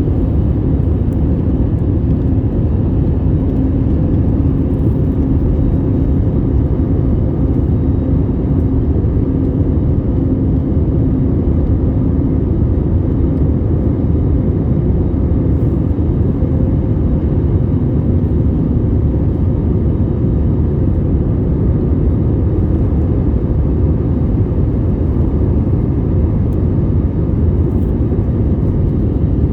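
Steady low rumble of a Boeing 787-8 airliner in flight, as heard by a passenger in the cabin. A faint hum in it fades out about twelve seconds in.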